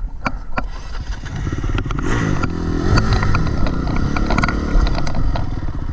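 Dirt bike engine revving up and down on the throttle, with scattered knocks and clatter.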